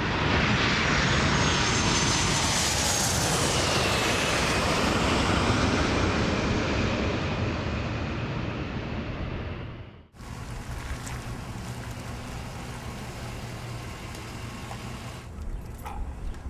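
A jet airliner passing close by: a loud roar with a high engine whine that falls in pitch as it goes, fading slightly, then cut off abruptly about ten seconds in to a quieter, steady low rumble of airport ambience with a few faint clicks near the end.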